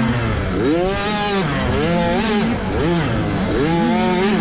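Two-stroke 65cc motocross bike engine revving up and falling back about four times in quick succession as the throttle is worked through the track. A steadier, lower engine note runs underneath.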